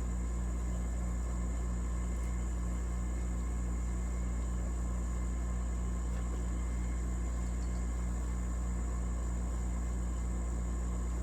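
Steady low mechanical hum, like an engine or motor running at a constant speed, with a constant high-pitched buzz above it.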